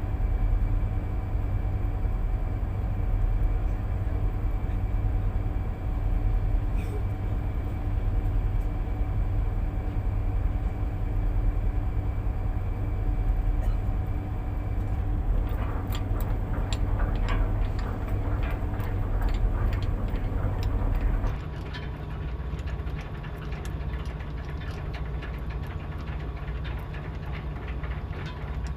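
Heavy boat engine running with a steady, loud low drone. About halfway through a run of clicks and rattles joins it. Two-thirds of the way in the sound changes abruptly to a quieter, lower drone.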